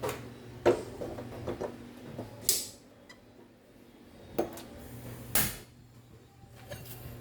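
Kitchen handling sounds: scattered knocks and clatter of cookware being set up on the stove, with two louder sharp sounds about two and a half and five and a half seconds in, over a steady low hum.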